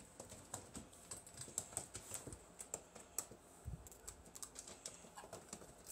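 A small dog's claws clicking faintly and irregularly as it moves, with a soft low thump about three and a half seconds in.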